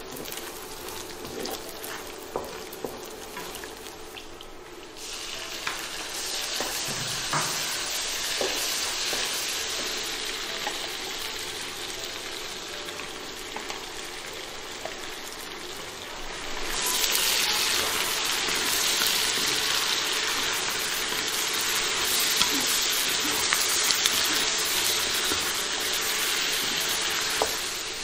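Diced fatty pork sizzling in hot oil in a wok, with scattered clicks of the spatula against the pan. About 17 seconds in, sliced bamboo shoots go into the pan and the sizzle turns suddenly louder, with a wooden spatula stirring through them.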